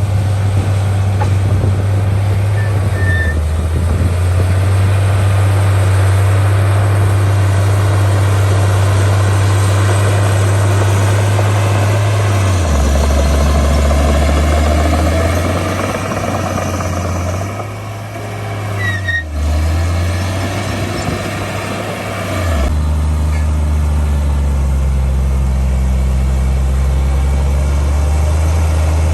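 Heavy diesel engine of earthmoving machinery running hard, its low drone stepping down and up in pitch several times as the engine speed changes, briefly easing off about two-thirds of the way through.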